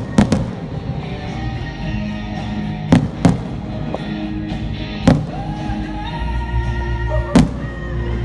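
Fireworks bursting: about six sharp bangs, two close together at the start and then one every two seconds or so, over steady music.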